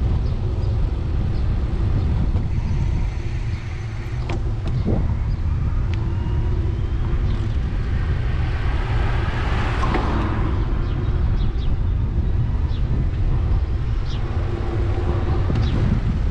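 Steady low rumble of wind on a bicycle-mounted microphone and tyre noise while riding, with a broad swell that rises and falls about ten seconds in, like a car going by.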